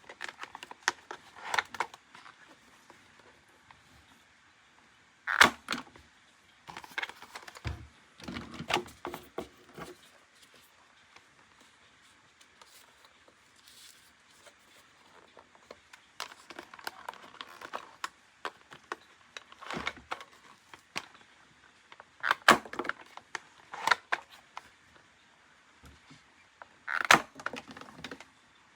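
Hard plastic toys and packaging being handled, giving scattered sharp clicks and short bursts of crackling with quiet gaps between.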